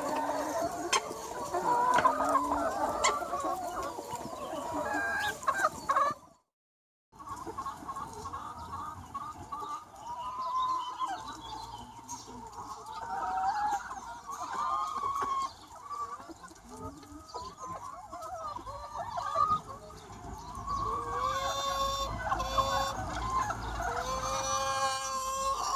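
A large free-range chicken flock clucking and calling, many hens overlapping, densest in the first few seconds. About six seconds in, the sound drops out completely for under a second where the recording is cut, then sparser clucks and calls carry on.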